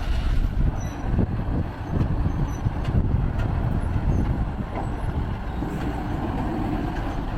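Heavy diesel semi-trucks running under load, a steady low engine rumble as they pull a heavily loaded heavy-haul trailer through a hairpin.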